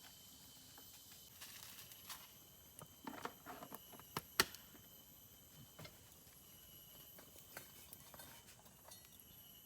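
Faint, irregular clicks and short rustles of camp cooking gear being handled while coffee is made, with one sharp tap a little before the middle.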